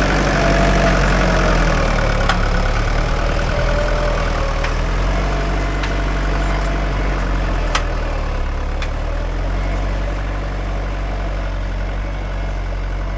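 Mahindra 575 DI tractor's four-cylinder diesel engine running steadily, with a wavering whine over the engine note and a few sharp clicks. The engine sound eases off a little near the end.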